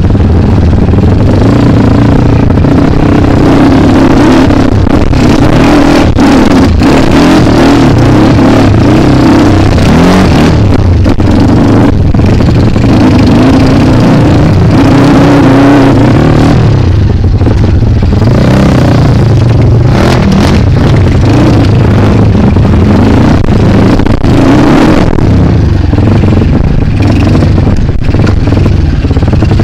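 Single-cylinder engine of a Kawasaki KLX dirt bike running loud under hard riding. The revs rise and fall over and over as the throttle is opened and closed, easing off briefly about two thirds of the way through.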